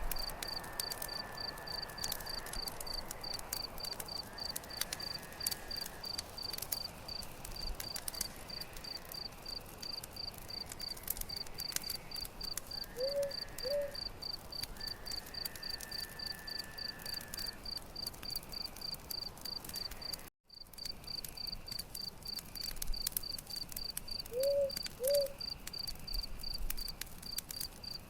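Campfire crackling with scattered sharp pops over a cricket chirping steadily, about three chirps a second. Two short low calls come twice, and the sound cuts out for a moment about two-thirds of the way through.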